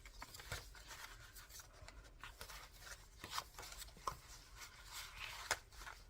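Paper and card being handled and leafed through: faint rustling and rubbing with a few light taps.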